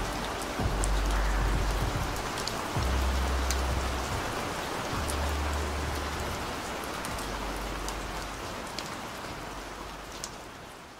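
Steady rain with scattered sharp drop ticks over a muffled pop song reduced to a few long, deep bass notes. The bass stops about two-thirds of the way in, and the rain fades slowly toward the end.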